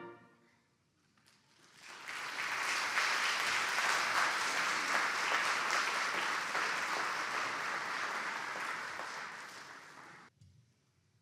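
Audience applauding after a piece ends: starts about two seconds in, holds steady, and cuts off suddenly near the end.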